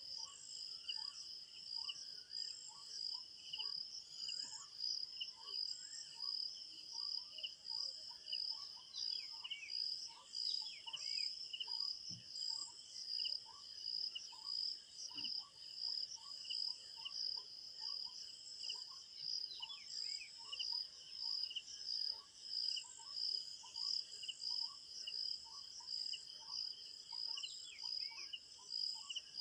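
Crickets chirring in a steady, pulsing chorus, with a short lower call repeated about once or twice a second throughout and a few brief sliding bird calls now and then.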